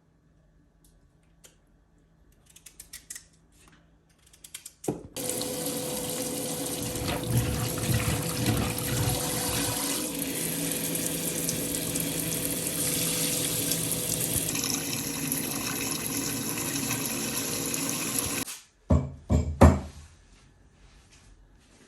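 Water running hard from a tap into a sink. It is turned on about five seconds in and runs steadily for some thirteen seconds before it is shut off. A few sharp knocks follow, like dishes being handled.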